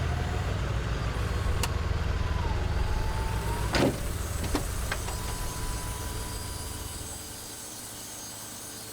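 An engine running with a steady low rumble, a few sharp clicks over it, then dropping away about seven seconds in to a faint steady background.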